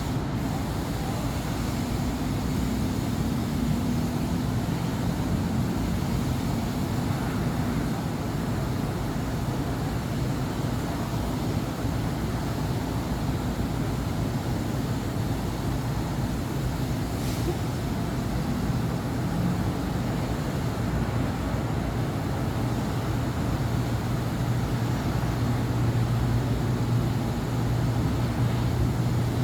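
City avenue traffic: a steady wash of passing cars and buses with engines humming low, a low engine note growing somewhat louder over the last few seconds.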